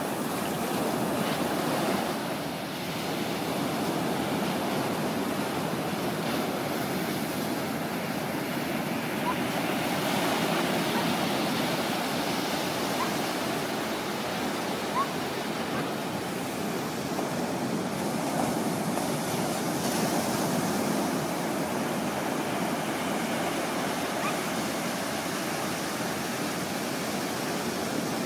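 Ocean surf breaking and washing ashore, a steady rush of waves that swells and eases slightly, with one brief click about halfway.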